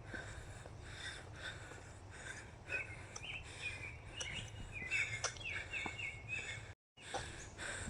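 Birds chirping outdoors, a run of short repeated calls in the middle, over a low steady rumble and a faint regular beat of running footfalls. The sound drops out briefly near the end.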